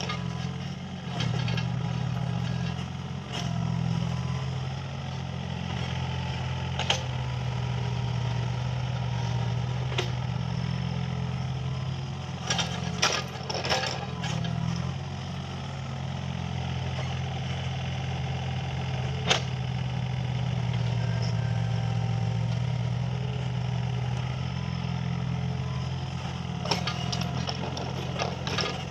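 Mini excavator's diesel engine running steadily at working speed, its note rising and falling a little as the machine works, with scattered sharp metallic clanks, a short cluster of them around the middle.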